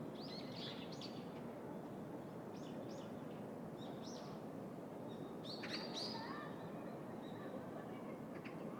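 City park ambience: a steady hum of distant city noise with small birds chirping in short calls now and then, the loudest flurry about six seconds in.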